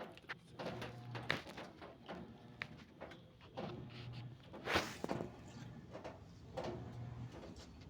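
Hands working on parts and tools: scattered light clicks and knocks, with one sharper knock about five seconds in.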